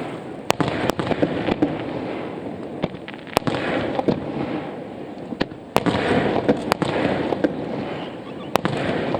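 Aerial fireworks launching and bursting: sharp bangs at irregular intervals, several close together, over a continuous dense rumble of further reports.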